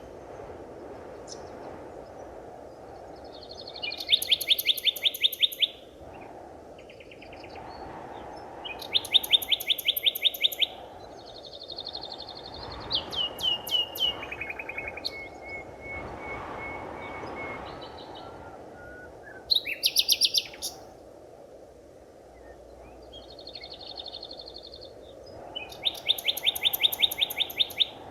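Forest birds singing: loud phrases of rapid, evenly repeated high notes, each lasting one to three seconds and coming every few seconds. A steady low hiss of ambient noise runs underneath.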